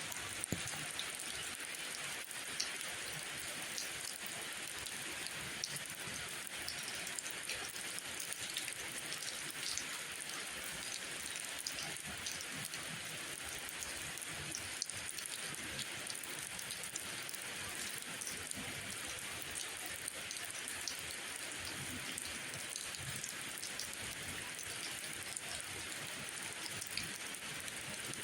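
Steady rain falling: an even hiss of rainfall with many scattered sharp ticks of drops striking surfaces.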